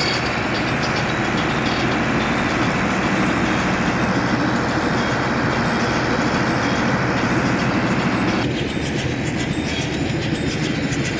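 A large DJ sound system of ASB speaker cabinets playing a test track at high volume, heard as a dense, distorted wash with heavy bass. About eight seconds in, the upper range drops away and the low end carries on.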